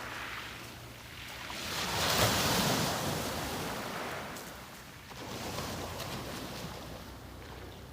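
Sea waves breaking on a beach, each swelling into a hiss of surf and drawing back. One wave peaks about two seconds in and a smaller one about five seconds in.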